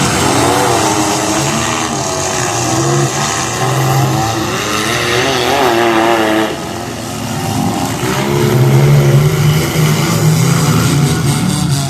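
Several demolition derby cars' engines revving hard at once, their pitches rising and falling as the cars drive and ram each other, with a brief lull about two-thirds of the way through.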